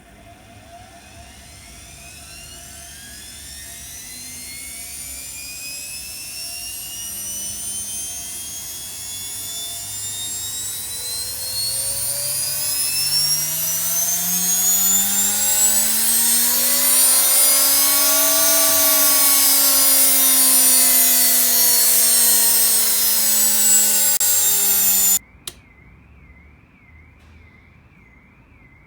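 Washing machine motor spinning up under a home-made control panel, its whine rising in pitch and getting louder for about eighteen seconds, easing off a little, then cutting off suddenly near the end.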